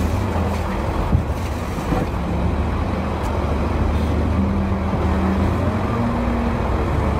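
Dump truck engine running steadily with a low rumble and road noise, cutting off abruptly at the end.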